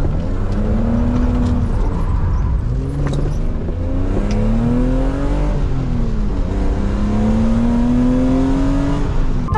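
BMW Z3 M's S52 straight-six engine accelerating hard through the gears: the revs climb, drop back at an upshift about two seconds in, climb again, drop at a second upshift about six seconds in, and climb once more.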